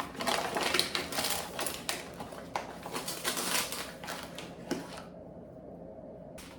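Coarse, less-processed granulated sugar being scooped and poured into a mixing bowl: a dense crackling patter of crystals that stops about five seconds in.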